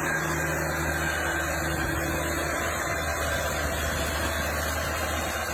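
Diesel engine of a 3.5-ton four-wheel-drive rough-terrain forklift idling steadily.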